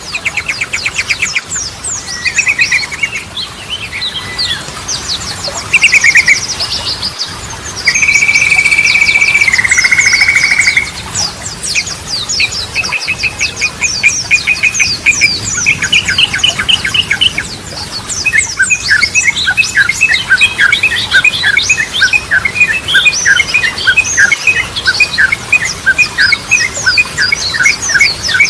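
Yellow-vented bulbuls (trucukan) singing: bubbling phrases, rapid trills and short held whistles over a busy high twittering. In the second half it turns into a fast, steady run of repeated chattering notes.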